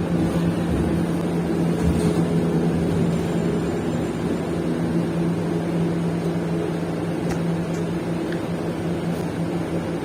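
City bus running along the road, heard from inside the cabin: a steady low engine drone over road and tyre noise.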